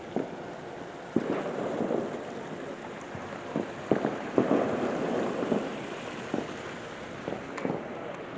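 Fireworks going off: scattered sharp pops with bursts of crackling, two louder crackling spells about a second in and around four seconds in.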